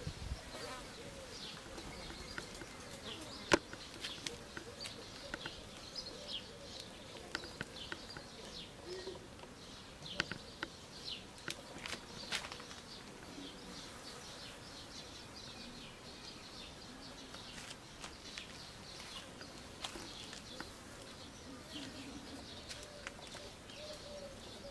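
Small birds chirping in short, high calls scattered over a quiet background, with a few sharp clicks, the loudest about three and a half seconds in.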